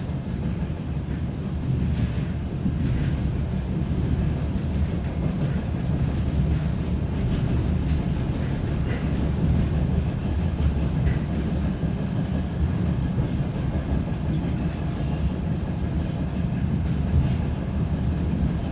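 DR1A diesel multiple unit running, with a steady low engine drone and rail noise and a few faint clicks.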